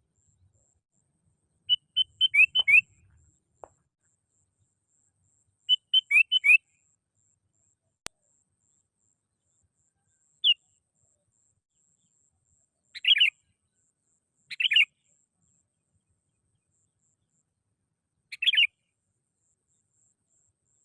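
Sooty-headed bulbul (kutilang) singing: two quick phrases of about six bright notes, about two and six seconds in, then a single note and three short calls spaced a few seconds apart.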